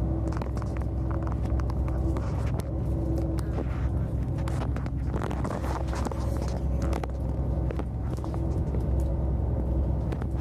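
Passenger train running, heard from inside the carriage: a steady low rumble with a constant hum and scattered clicks and knocks.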